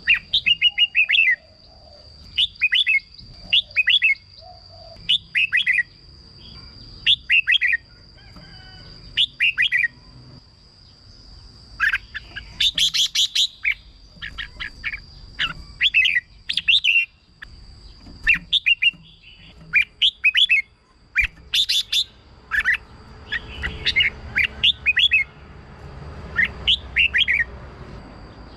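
Red-whiskered bulbul singing: short, bright phrases of a few quick chirping notes, repeated every second or two. A thin, steady high tone runs behind the song.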